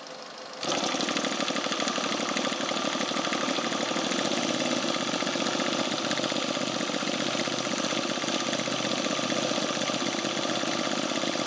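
Laser 200V four-stroke V-twin glow engine of an RC model biplane running steadily with an even, rapid firing pulse. It jumps clearly louder about half a second in, then holds a steady throttle.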